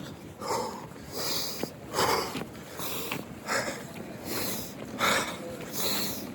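A man breathing hard while jogging, out of breath, with a rough breath about every three quarters of a second.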